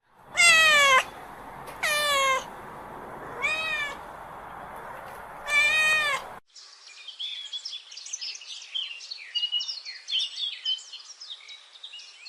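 A cat meowing four times, each meow falling in pitch, over a steady background hiss. About six seconds in, the sound cuts to a different recording of many quick, high chirps.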